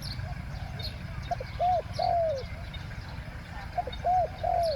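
Spotted dove cooing: two phrases, each a short note and then two longer coos, the last one falling away. Faint high chirps of small birds come between them.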